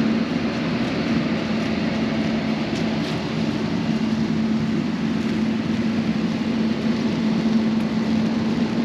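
Steady vehicle engine noise: an even rumble with a constant low hum held at one pitch.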